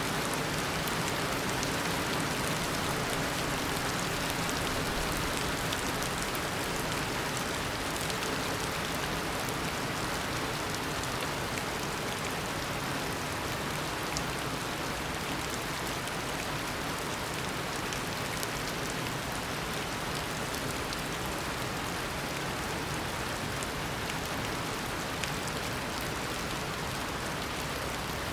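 Heavy tropical rain pouring steadily, a dense even hiss of rainfall with fine drop patter on surfaces.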